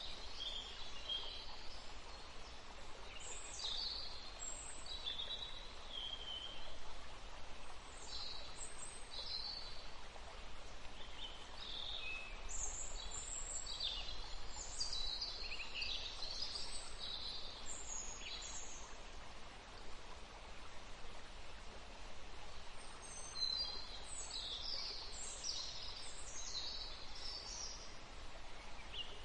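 Small birds chirping and calling in short, high bursts over a steady outdoor background hiss, with a lull in the calls about two-thirds of the way through.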